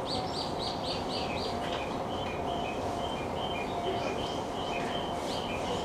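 A small bird singing: a quick run of about six falling chirps, then a string of short repeated high notes. Under it is the steady hum of the electric train.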